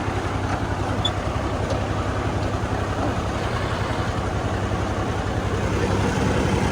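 Heavy diesel harvest machinery running steadily under load: an even engine drone with the dense noise of wheat being threshed over it.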